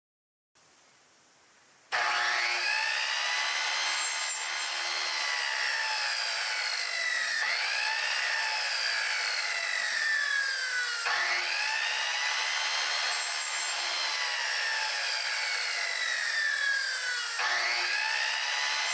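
A power saw cutting bamboo. It starts about two seconds in, and its whine sinks in pitch each time the blade bites into the cane, starting over with a jolt about four times.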